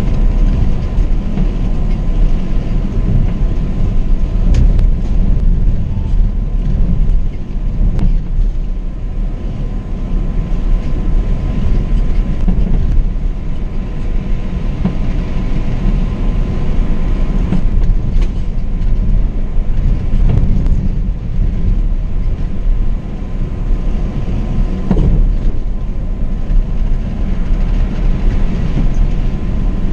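Scania K420 double-decker coach (Marcopolo Paradiso 1800 DD) cruising at road speed, heard from the driver's seat: a steady low rumble of engine and tyres with a faint steady whine on top. Several short knocks and rattles come through now and then.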